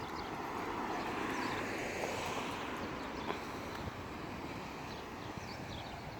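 Small birds chirping over outdoor traffic noise. A passing vehicle swells up over the first two seconds or so and then fades away.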